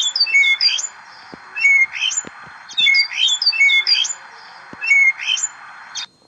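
A bird calling in quick, repeated phrases of short, high, rising chirps, a group about every second, over a steady hiss.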